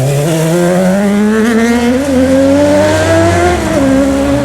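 Sport motorcycle engine accelerating hard, its pitch climbing steadily for about three and a half seconds, then dropping and holding lower near the end.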